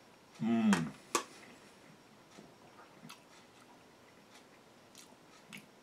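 A man eating: a short voiced murmur falling in pitch about half a second in, a click just after, then faint chewing and mouth clicks.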